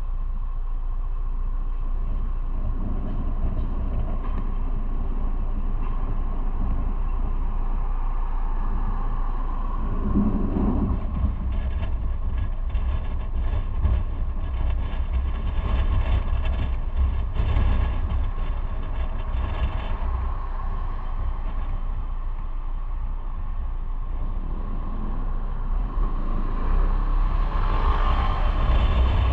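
Motorcycle on the move: a steady low rumble of engine and road noise, growing louder over the last few seconds.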